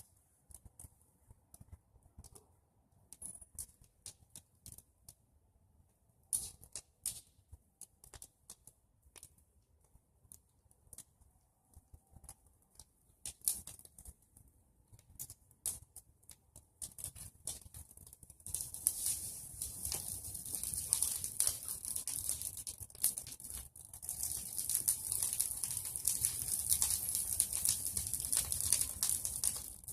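A bonfire of pruned tree branches crackling with sharp, irregular pops. The pops are sparse at first and become a dense crackle with a steady hiss about two-thirds of the way through.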